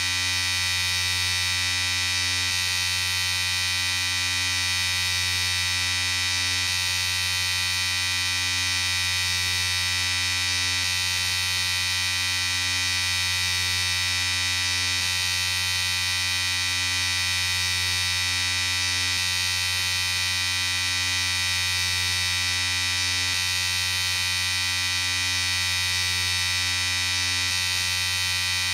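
Electric shaver running in a steady, continuous buzz.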